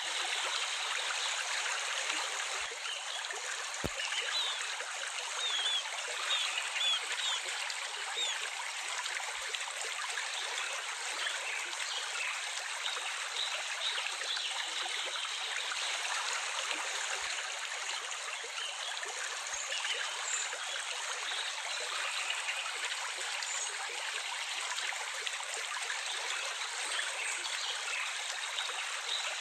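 Steady running water, a continuous stream-like rush and trickle, with a few faint high bird chirps early on and again around the middle.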